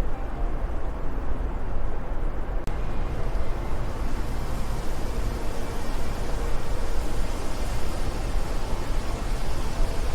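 Wind blowing steadily: a deep rumble with a hiss over it. A brief dropout comes about a quarter of the way in, after which the hiss turns brighter.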